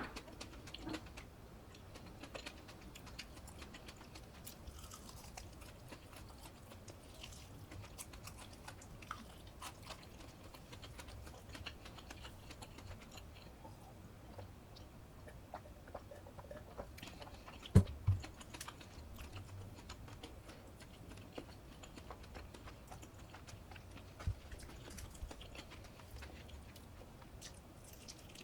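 Close-miked eating sounds: soft chewing with a steady stream of small crisp clicks and crunches. Two louder thumps come about 18 seconds in, and a single one about 24 seconds in.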